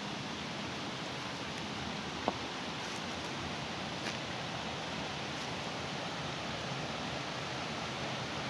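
Steady rush of flowing water, even and unbroken. A single short click sounds about two seconds in.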